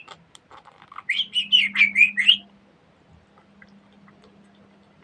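Pet budgerigar chattering: a quick run of warbling, wavering high chirps lasting just over a second.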